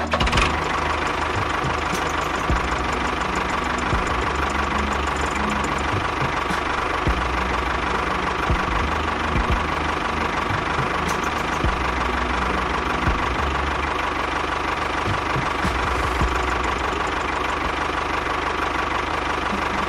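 A small machine's motor running steadily, with a fast low pulsing and a steady whine.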